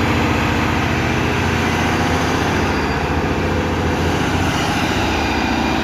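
Heavy truck engine running steadily with a fast, even low pulse, cutting off abruptly at the end.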